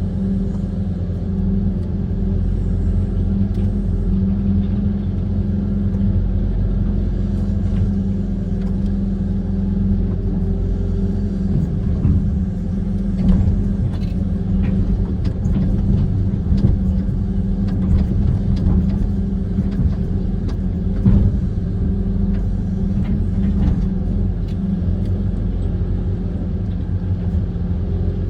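Diesel engine of a Kobelco SK130 amphibious excavator running steadily with a deep rumble, with scattered sharp knocks and clanks from the working machine.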